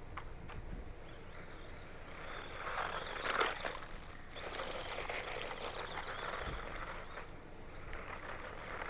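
Small brushed electric RC truck motor whining as the throttle is pulled, rising and falling in several bursts, with tyres spinning and crunching through loose gravel.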